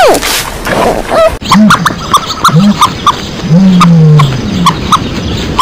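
Animal calls: a short falling squeal, then a run of short high peeps mixed with low, drawn-out calls, the longest near the middle.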